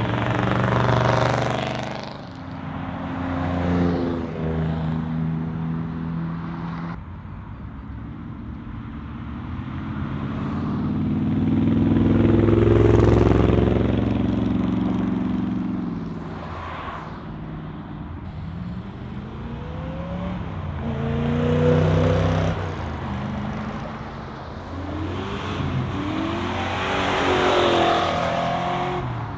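Muscle cars driving off one after another, each engine and exhaust swelling as it passes and then fading, with short revs rising in pitch. The loudest car passes about halfway through, and others follow near the end.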